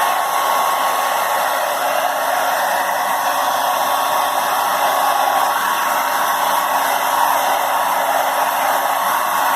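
Electric hair dryer blowing steadily: an even rushing of air with a thin, steady high tone running through it.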